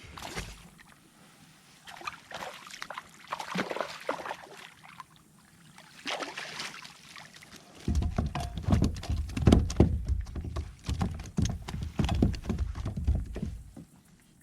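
Knocks, rattles and water splashes in and against a fishing kayak while a trout is brought aboard. Short scattered clatter in the first half gives way, about halfway through, to a run of rapid heavy thumps and low rumbling that stops shortly before the end.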